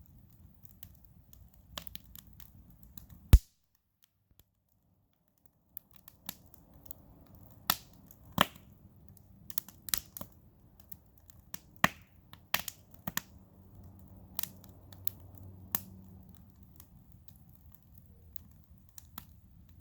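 Cedar campfire crackling and popping: irregular sharp snaps over a low steady rumble of the burning fire. One very loud pop comes about three seconds in, after which the sound cuts out for about two seconds.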